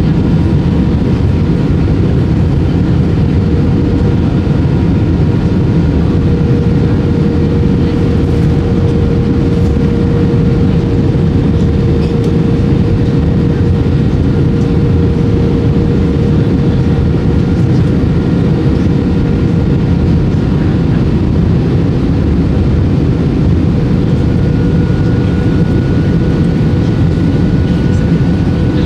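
Airbus A320 cabin noise: a loud, steady rush of engine and airflow noise with a steady whine.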